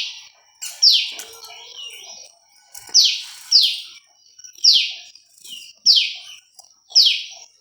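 A prinia, the bird kept as prenjak lumut, calling over and over: short, sharp notes that fall steeply in pitch, about one a second.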